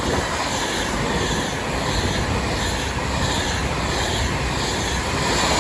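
A train passing through at speed: a steady rush of wheel and rail noise with a faint regular beat.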